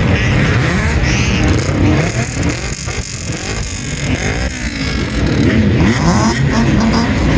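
Bosozoku-style car engines being revved again and again, the pitch rising and falling in quick, overlapping blips, a little softer in the middle stretch.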